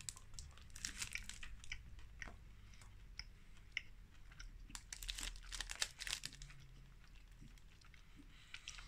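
Biting into and chewing a Hershey's Salted Caramel Toffee bar with crunchy toffee bits: faint, irregular crunches and mouth clicks, busiest a little past the middle.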